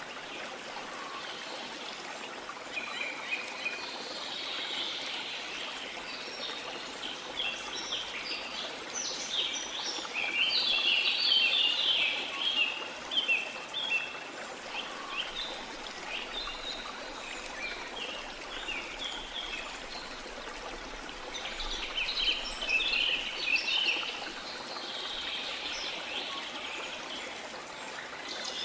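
Steady rush of waterfall water under birds chirping and singing, the birdsong coming in two busy spells, one in the first half and a shorter one past the middle.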